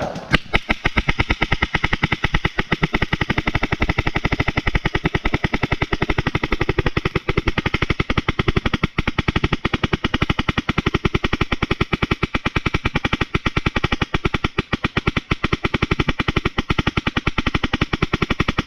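Paintball marker firing on full auto: one continuous, rapid, even stream of shots that barely pauses.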